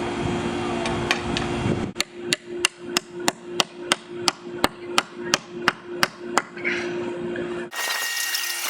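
Hammer driving nails into wood: a steady run of about fourteen blows, roughly three a second, starting about two seconds in and stopping shortly before the end.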